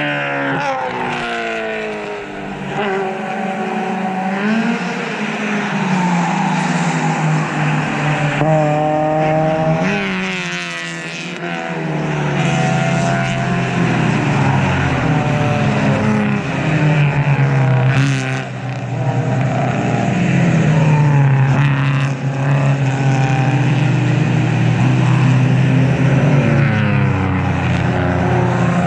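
Race cars passing one after another at racing speed, their engines revving and shifting so the pitch keeps rising and falling, with several cars often heard at once.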